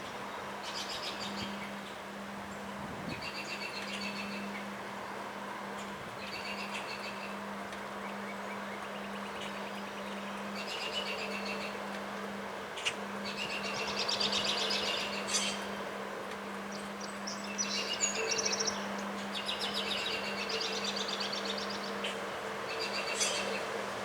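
A songbird singing short trilled phrases over and over, one every two seconds or so, over steady wind noise and a constant low hum.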